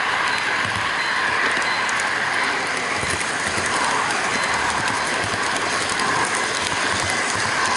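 HO-gauge model freight train running along its track, heard from a camera riding on one of its wagons: a steady rolling rattle of small metal wheels on the rails with faint clicks.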